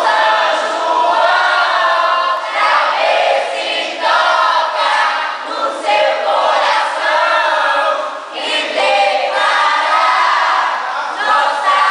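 A group of many voices singing together loudly in short phrases, like a crowd or chorus, with brief breaks between the phrases.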